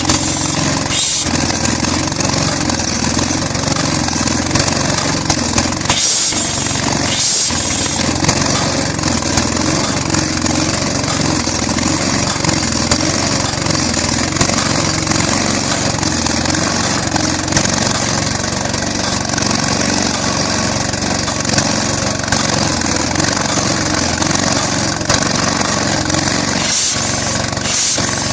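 Southpenn 20 HP hit-and-miss flywheel engine running on propane shortly after a cold start, a loud, steady run of engine noise with many short peaks.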